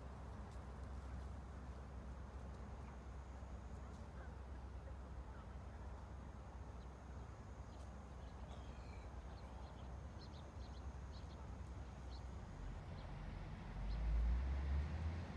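Faint ambient background noise: a steady low rumble with a few faint high chirps about two-thirds of the way in, and a swell of louder low rumble near the end.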